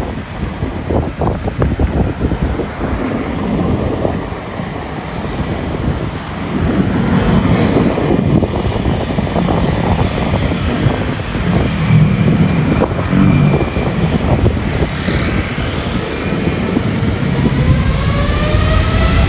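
Jet airliner engines, a steady rumble that grows louder partway through, with a rising whine near the end as the engines spool up. Wind buffets the microphone.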